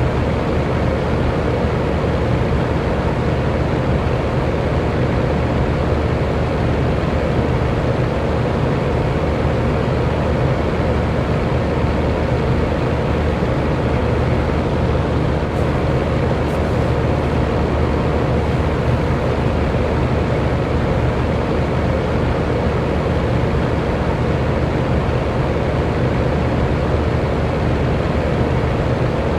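Electric fan running steadily: an even rush of air with a faint low motor hum under it.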